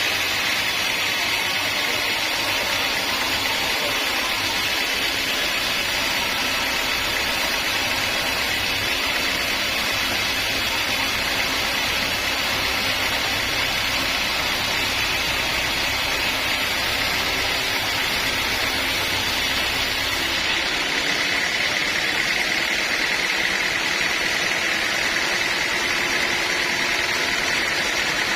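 Bandsaw sawmill running steadily with a constant mechanical noise. About two-thirds of the way through, its low hum drops away while the higher noise carries on.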